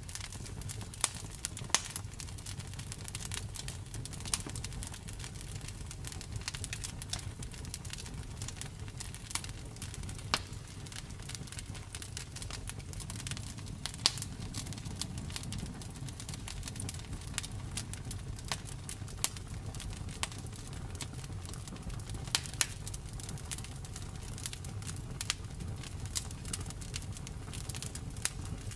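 Wood fire crackling and popping: a low steady rumble of flames with many irregular sharp snaps, a few of them louder, about a second and two seconds in, around ten and fourteen seconds, and twice near twenty-three seconds.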